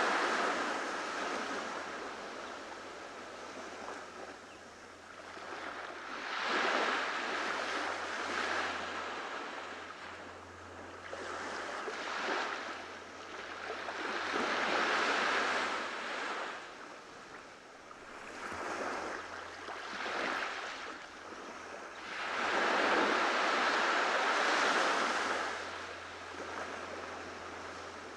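Ocean waves breaking and washing up on a beach, swelling and fading in surges every few seconds, the biggest one late on.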